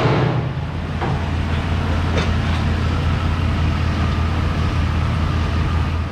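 GMC Savana van's LS V8 engine running steadily with a low, even hum.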